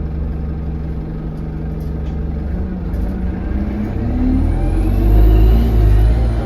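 Euro 6 Alexander Dennis Enviro200 bus engine revving up and getting louder from a few seconds in, with a high turbo whistle that rises and falls near the end; the uploader puts the whistle down to a turbo leak.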